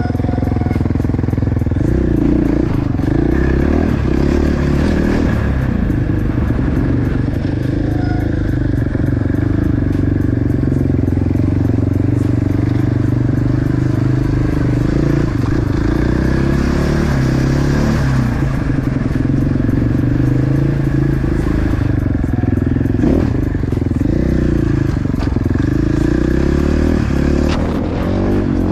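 Motorcycle engine running steadily while under way, its pitch shifting a little with the throttle.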